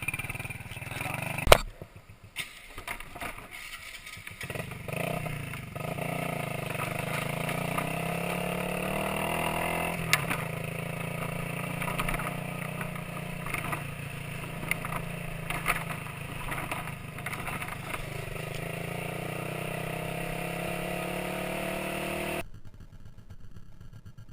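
A sharp knock, then a motorcycle engine picking up and revving around five seconds in, settling into steady running. It cuts off suddenly near the end.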